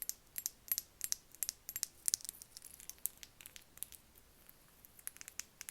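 Light, quick ASMR tapping: a run of short, sharp taps at an irregular pace, dense for the first two seconds or so, then sparser.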